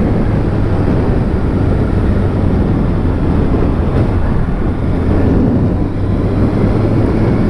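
Kawasaki Ninja ZX-6R 636 inline-four engine running at a steady cruise, with heavy wind noise on the microphone.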